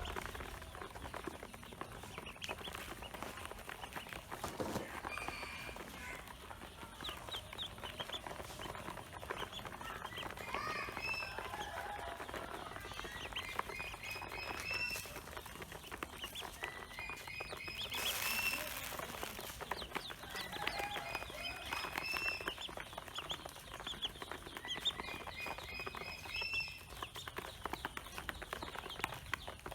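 Pekin ducklings peeping: runs of short, high chirps repeated in quick series, over many small clicks, with a brief noisy rush about two-thirds of the way through.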